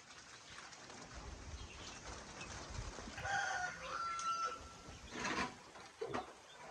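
A rooster crowing once, about three seconds in, over a steady hiss, with a few sharp knocks near the end.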